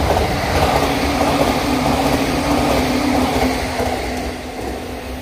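JR East E259 series Narita Express electric train passing at about 110 km/h, a loud rush of wheel and air noise with a steady motor hum that dips slightly in pitch about three and a half seconds in. The sound fades as the last car goes by.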